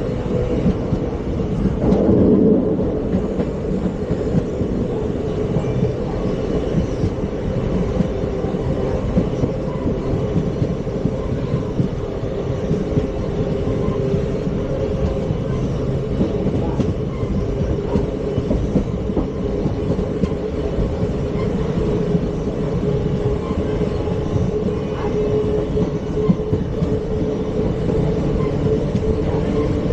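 ICF passenger coach running at speed over the rails: a steady rumble of wheels on track with a constant hum, swelling briefly louder about two seconds in.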